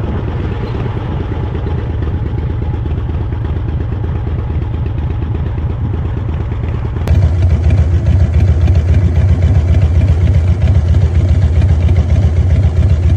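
Motorcycle engine running steadily with a fast, even pulse, jumping abruptly louder and closer about seven seconds in.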